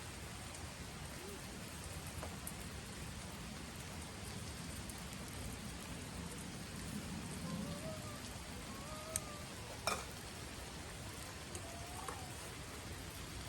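Campfire burning: a steady hiss with a few sharp pops and crackles, the loudest about ten seconds in.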